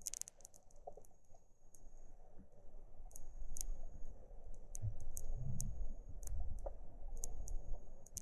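Underwater river sound picked up by a submerged camera: scattered sharp clicks and ticks over a low, muffled rumble of moving water that grows stronger about three seconds in.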